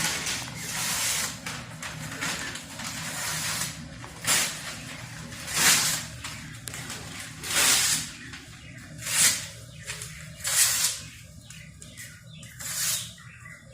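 Newspaper being torn up by hand: rustling at first, then a series of about six short, sharp rips a second or two apart.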